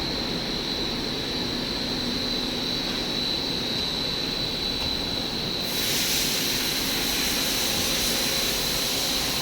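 Three-layer PVC fiber-reinforced hose extrusion line running with steady machine noise and a constant high-pitched whine. About six seconds in, a loud hiss joins and keeps on.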